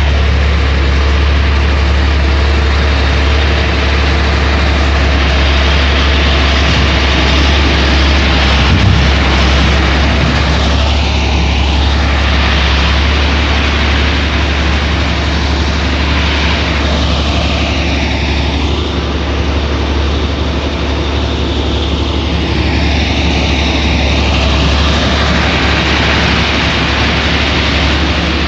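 Heavy diesel road-works machinery running steadily, a loud low engine drone with a continuous rushing noise that slowly sweeps in tone.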